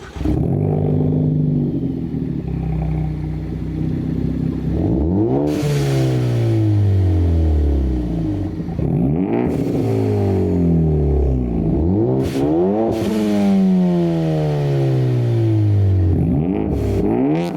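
Ford Focus ST's 2.0-litre turbocharged four-cylinder, with an MBRP turboback exhaust and resonators deleted, idling and then being revved about five times. The revs climb sharply and fall back each time, with a brief hiss near the top of several revs.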